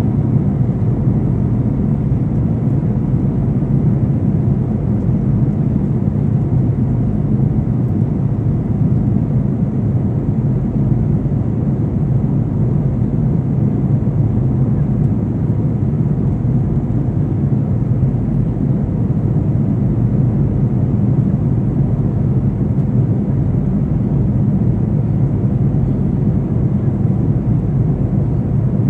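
Steady, loud low roar inside an airliner's passenger cabin: engine and airflow noise, unchanging throughout.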